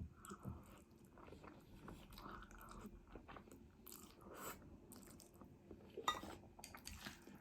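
Faint chewing of food by a person eating, with scattered small mouth clicks.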